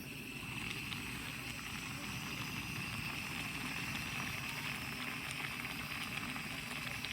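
Pot of gopchang hot pot stew boiling, a steady bubbling with faint crackles and ticks throughout.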